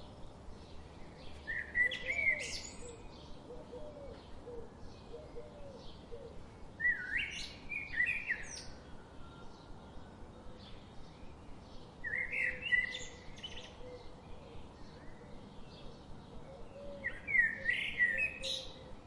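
Birds singing: one songbird repeats a short phrase of quick notes four times, about every five seconds, while many fainter chirps from other birds carry on between.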